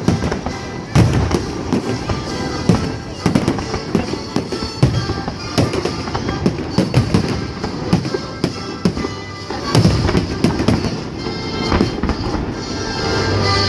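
Fireworks display: shell bursts and crackles going off in quick, irregular succession, with music playing underneath.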